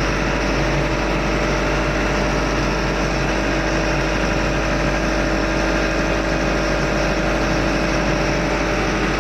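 Steady, loud drone of engine-room machinery on a ship, an engine running evenly with a constant hum and no change in speed.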